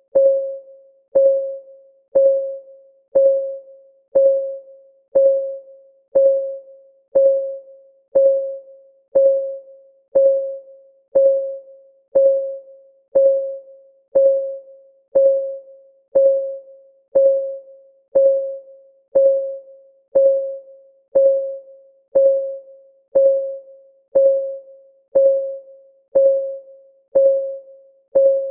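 Clock-ticking sound effect of a countdown timer: one pitched tick each second, steady and even, each a short tone that dies away quickly.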